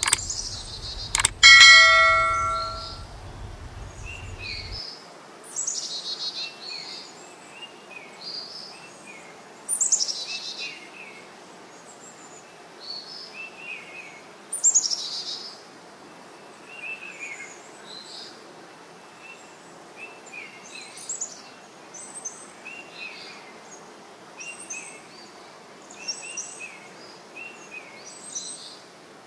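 Birds chirping and trilling in short repeated phrases throughout. About a second in, a click is followed by a bell-like chime that rings and fades, the sound effect of a subscribe-button animation.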